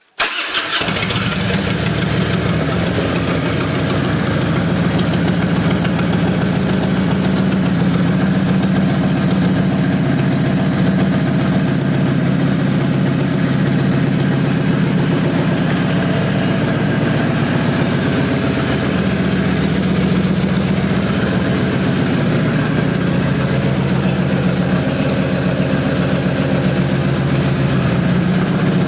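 Harley-Davidson Road King's air-cooled Twin Cam 88 V-twin engine starting just after the start, then idling steadily and loudly.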